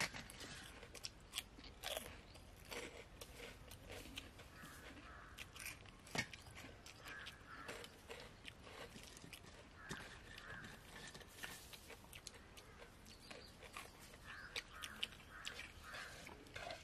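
Faint chewing and crunching of food, with scattered small clicks and knocks of steel tumblers and plates, and birds calling in the background.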